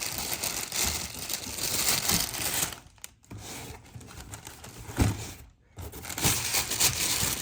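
Packaging being handled and opened: crinkling and rustling, broken by two short pauses, with a sharp knock about five seconds in.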